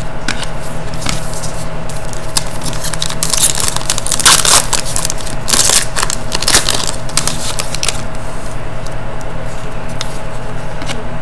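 Trading cards and their packaging being handled: rustling, sliding and crinkling in bursts, busiest in the middle, over a steady low hum.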